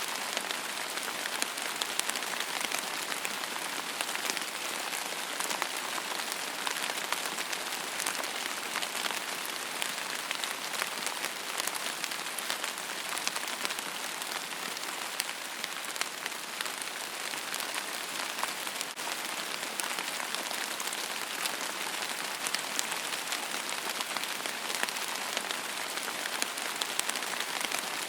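Steady rain falling on a surface, a dense even hiss with many fine drop ticks.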